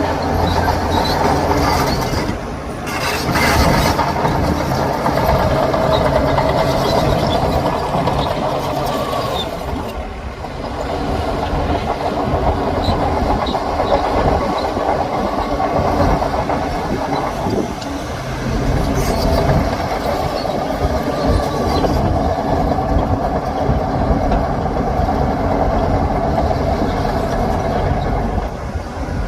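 Shantui crawler bulldozer working: its diesel engine running under load together with the noise of its steel tracks, loud and continuous with two brief dips in level.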